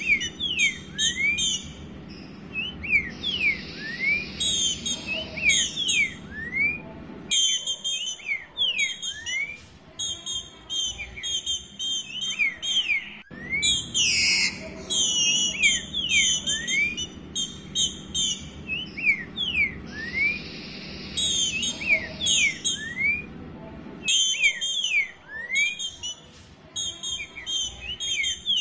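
Female green-winged saltator (trinca-ferro) calling: repeated bursts of high, quick notes mixed with short rising notes, with brief pauses between series. It is a female soliciting a mate.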